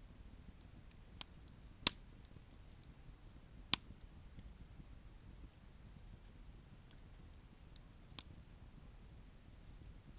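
Wood fire crackling: a few sharp pops, the loudest about two seconds in and another just under two seconds later, then a smaller one near the end, over a faint low rumble.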